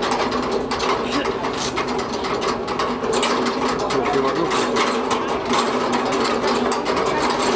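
Machinery running steadily: a fast, continuous mechanical clatter over a steady hum.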